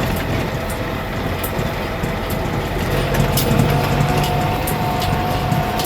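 Tractor engine running steadily with a low rumble, with a few light clicks and a steady higher whine that comes in about halfway through.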